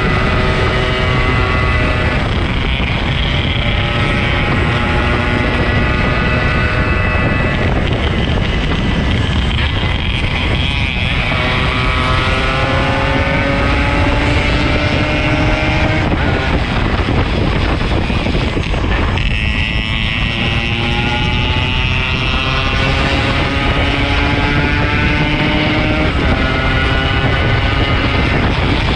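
Yamaha RX-King 135's single-cylinder two-stroke engine running under way, its pitch climbing and then dropping several times as it goes up through the gears, with heavy wind noise on the microphone.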